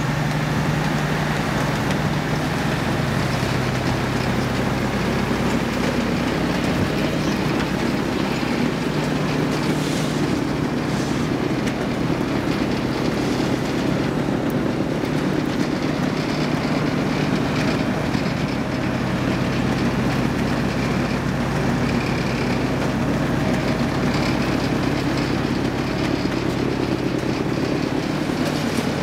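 Diesel engine of a Wirtgen W 1500 cold milling machine running steadily, a constant low hum with mechanical noise over it.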